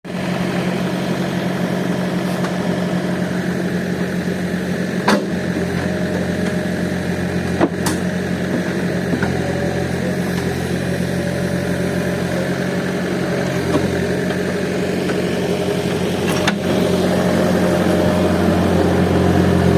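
Diesel engine of a Case heavy machine running steadily at low revs, with a few sharp knocks; it gets a little louder near the end.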